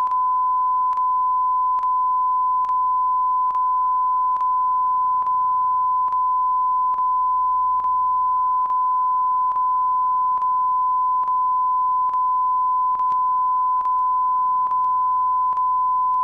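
Steady single-pitch electronic test tone, held at a constant level, with a faint click a little more than once a second.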